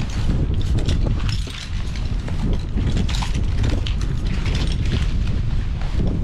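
Wind buffeting the microphone, with irregular metallic clicks and rattles of rope-access hardware being handled while rigging.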